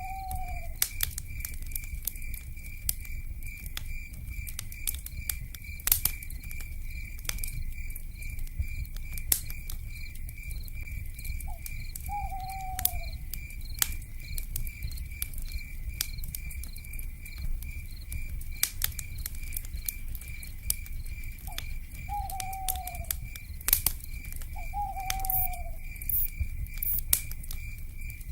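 Wood fire crackling with scattered sharp pops, over a steady pulsing chirr of night insects and a low rumble. Three short, falling owl calls sound about 12, 22 and 25 seconds in.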